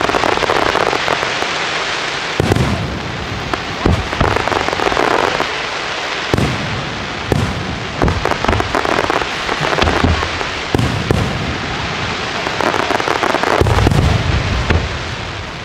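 Aerial fireworks display: shells bursting with sharp bangs every second or two over a continuous dense crackling, with deeper booms near the end.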